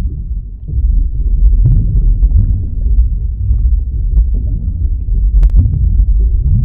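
Deep, continuous underwater rumble of an ocean ambience, with a single brief click about five seconds in.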